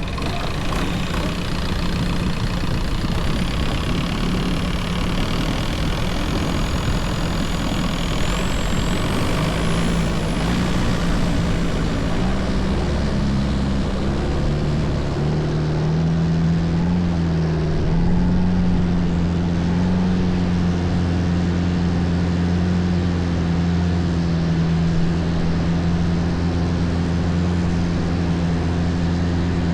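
Longtail boat engine running continuously. About halfway through its note firms up, wavers in pitch, then holds steady as the boat cruises.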